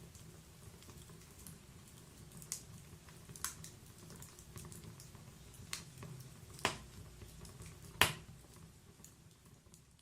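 Wood fire in a fireplace crackling: a low, steady rumble of burning logs with scattered sharp pops, about five of them, the loudest a little after eight seconds in.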